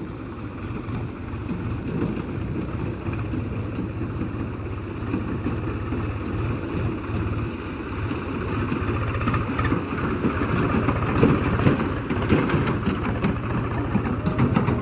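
Heavy diesel engine running continuously with a rapid, even pulse of firing strokes, working harder and louder in the second half.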